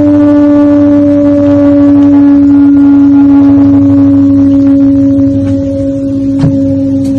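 A loud, steady, horn-like drone on one low note that sinks slightly in pitch, of the kind reported as a mysterious 'strange sound' in the sky. A sharp click comes near the end.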